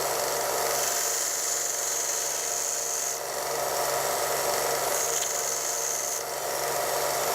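Harbor Freight 1" x 30" belt sander running steadily while a piece of poplar is sanded on the belt. A high rasping hiss comes in when the wood is pressed to the belt, twice, for a second or two each time, over the motor's steady hum.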